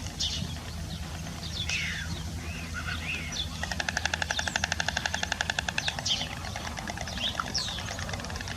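Wild birds calling: scattered short chirps and sweeping notes, with a fast rattling trill lasting about two and a half seconds partway through.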